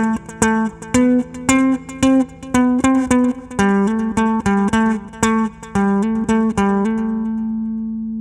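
Music: a guitar picking single notes over a bass line at about two notes a second, ending on a held note that rings out.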